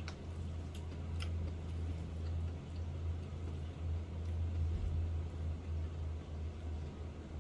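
Faint mouth clicks and squishes of someone chewing food, a few short clicks mostly in the first second and a half, over a steady low hum.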